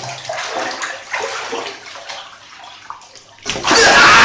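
Water sloshing and splashing in irregular strokes. About three and a half seconds in, a much louder rushing noise starts abruptly.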